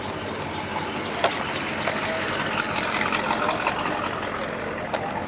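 A car engine idling steadily, with a few sharp clicks.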